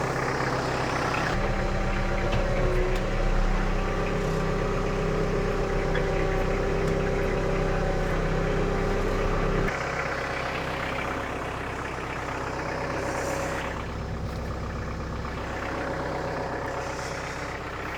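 An engine running. About a second in it rises to a louder, higher, steady note and holds there for about eight seconds, then drops back to a lower idle for the rest. This is the engine working under load while it is used to press on a large tractor tire to break its bead from the rim, which doesn't succeed.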